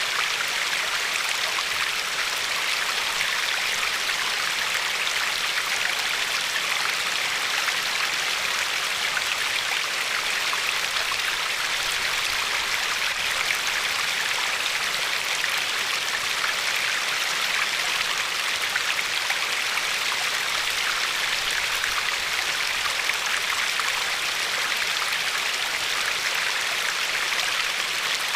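Glacier-fed river flowing and lapping over a pebbly shore: a steady, even rush of water with fine splashy detail.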